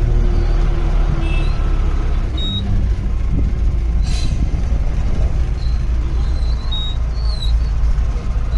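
Safari vehicle's engine running with a steady low rumble. A few short, high chirps sound over it, and there is a brief rushing noise about four seconds in.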